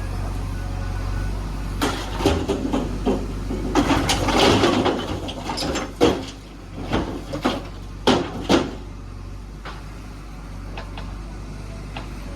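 Diesel engine of a JCB 3DX backhoe loader running steadily under a string of metal clanks and rattles as the bucket works the load, the sharpest knocks about six and eight seconds in.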